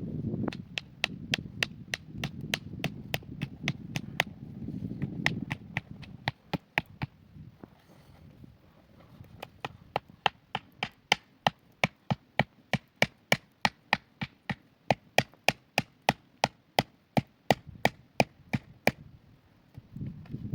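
A hand tool striking wood over and over in a steady rhythm, about two to three sharp blows a second, stopping a little before the end. A low rustling runs under the first few seconds.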